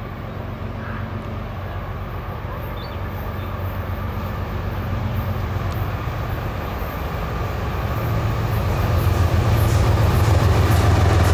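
CSX freight train's diesel locomotives approaching, a deep engine rumble that grows steadily louder.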